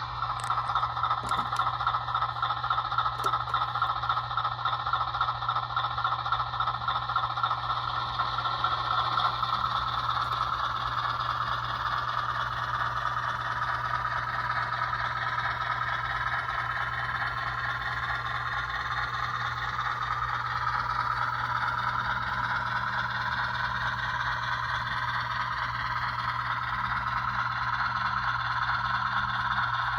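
HO scale model 44-ton diesel switcher running along the layout's track: a steady mechanical running sound with a low hum and scraping, rattling wheel and drive noise that shifts slowly in pitch.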